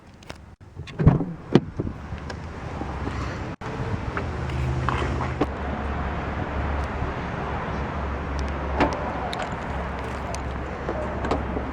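A car door shut with a couple of knocks about a second in, then a steady low outdoor hum with scattered clicks of handling around the car.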